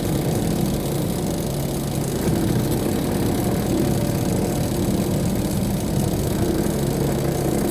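Semi-automatic twin-tub washing machine running, its spin tub spinning clothes dry with a steady motor hum as the last of the water drains out.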